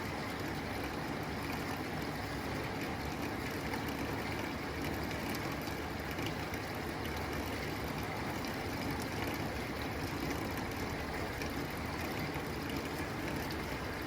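Steady rain pattering on a tin roof, dense fine drops with a continuous wash of water.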